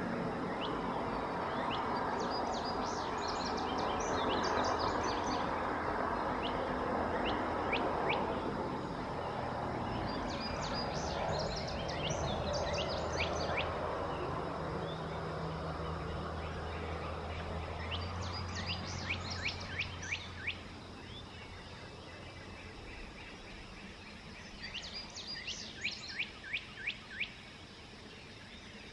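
A songbird sings four times, about every eight seconds, each song a quick run of high, sharply falling notes lasting two to three seconds. Under it is a low rumble with a steady hum that fades away about two-thirds of the way through.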